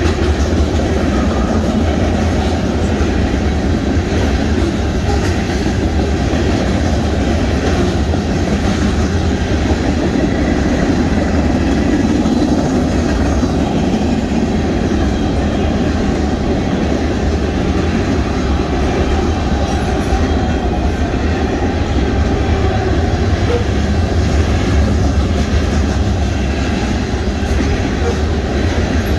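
Freight train's covered hopper cars rolling past: steel wheels running on the rails, a loud, steady noise mostly low in pitch that holds level throughout.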